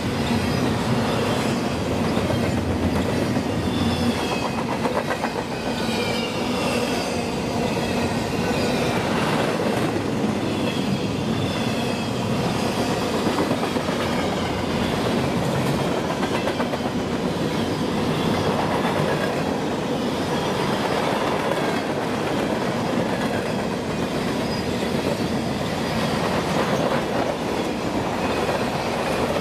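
Freight train cars (double-stack container well cars, then hoppers) rolling steadily past: a continuous rumble of steel wheels on rail with the clickety-clack of wheels over the rail joints.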